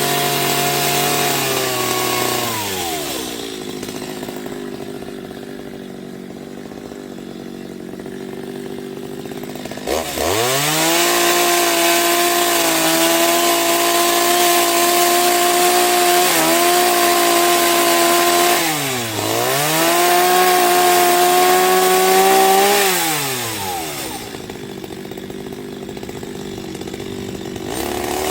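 Chainsaw running at idle, then revving up sharply about ten seconds in and held at high speed for around twelve seconds, with a brief dip in speed partway, before dropping back to idle; it revs up again at the very end.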